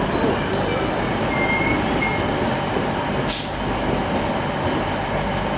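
Wheel squeal from a slow-moving TransPennine Express multiple unit: several thin high squeals in the first two seconds, over the steady rumble of the train. A short hiss comes about three seconds in.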